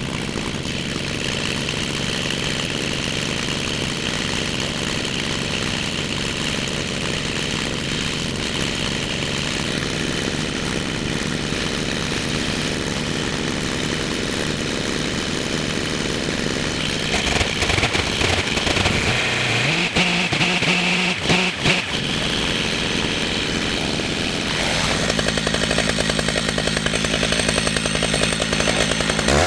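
Two-stroke chainsaw running under load, ripping lengthwise through a red oak log on a chainsaw mill. About two-thirds of the way through its engine pitch shifts and dips briefly, then it runs steady and a little louder to the end.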